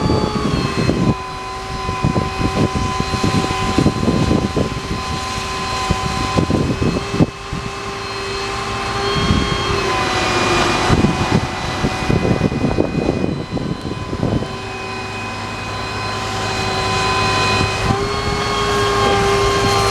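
Equipment on a running service truck making a steady mechanical whine and drone made of several held tones. The pitch drops a little about ten seconds in and comes back up near the end, with scattered low knocks and rumbles underneath.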